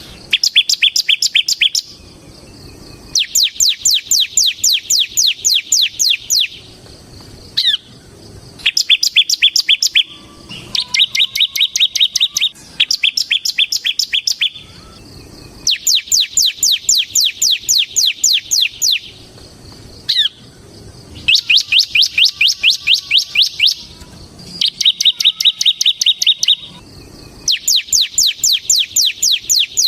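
Bar-winged prinia (ciblek) singing in a vigorous 'ngebren' style: repeated bursts of two to three seconds of fast, sharp, high notes, about four or five a second, separated by short pauses.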